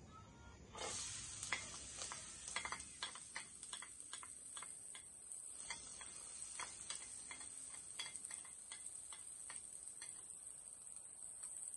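Minced garlic and chopped onion sizzling in hot oil in a nonstick frying pan, the hiss starting about a second in as they hit the pan. A wooden spatula scraping them off a plate gives many light ticks and taps.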